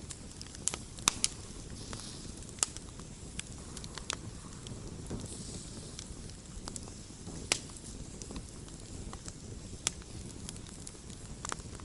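Wood campfire burning with irregular sharp crackles and pops over a steady low rushing of the flames.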